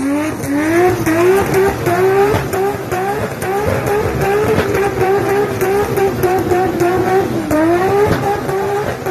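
Toyota Supra MK4's turbocharged straight-six engine held at high revs, its pitch climbing and falling back again and again, about twice a second at first. It then holds near the top for a few seconds before dipping and climbing again near the end.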